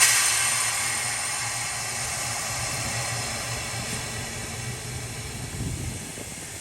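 Steam locomotive letting off steam: a loud hiss that starts suddenly and slowly dies down, over a steady low hum.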